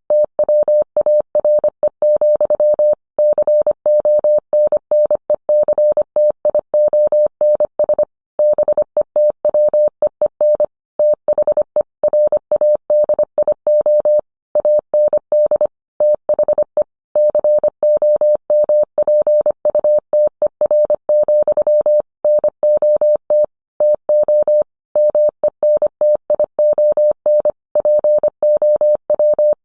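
Morse code sent as a single steady mid-pitched tone, keyed rapidly on and off in dots and dashes, with short pauses between words.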